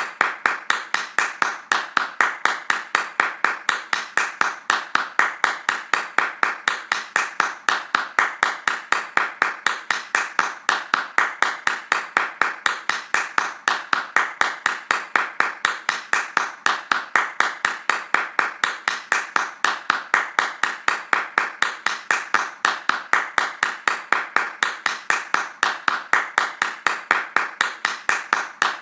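Hands clapping in a fast, even rhythm without a break, each clap sharp and of about the same loudness.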